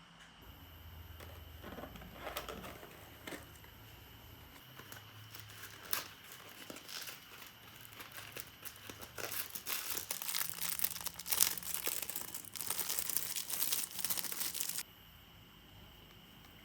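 Crinkling and rustling, as of something crinkly being handled up close: scattered crackles at first, growing busy and dense over the second half, then cutting off abruptly near the end.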